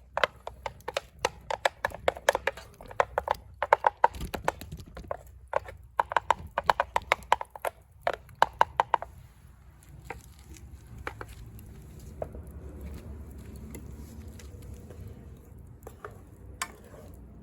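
A cooking utensil rapidly tapping and scraping in a frying pan as grated onion is stir-fried, in quick runs of clicks. About nine seconds in the tapping mostly stops, leaving a fainter steady low noise with a few scattered taps.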